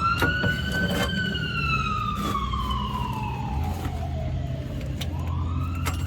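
Siren wailing: one long slow fall in pitch, then rising again near the end, over a steady low rumble of traffic or an engine, with a few sharp clicks.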